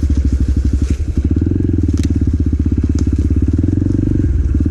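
Motorcycle engine running steadily under way, picked up by a microphone inside the rider's helmet, with its firing pulses coming in a dense even train. Two sharp ticks about two and three seconds in.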